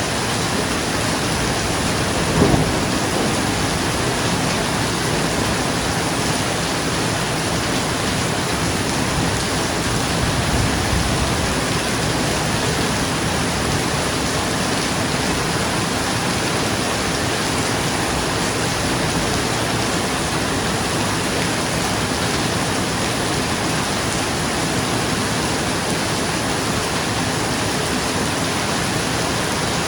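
Steady rain pattering on a roof, with a short sharp crack a couple of seconds in and a low rumble of thunder about ten seconds in.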